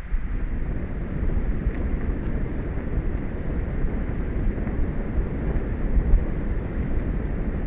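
Steady low rumbling noise of wind buffeting the microphone, uneven but without any tone or rhythm.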